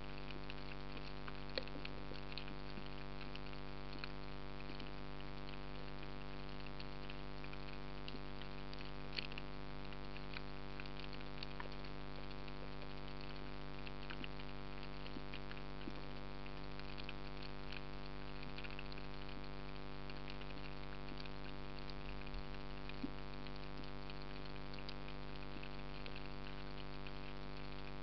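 Underwater ambience: a steady hum with a dense, irregular crackle of fine clicks over it.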